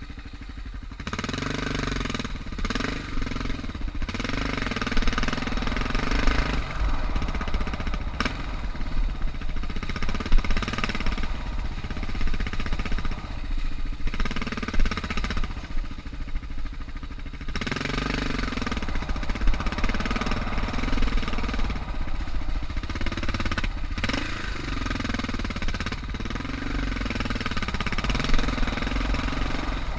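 Suzuki DR650's 644 cc single-cylinder four-stroke engine pulling along a trail, its pitch rising and falling as the throttle opens and closes, with a rushing noise over it. It eases off briefly twice, about a second in and about halfway through.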